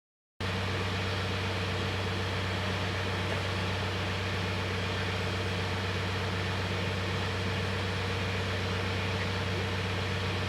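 BadBoy 5045 tractor engine idling steadily, starting abruptly about half a second in.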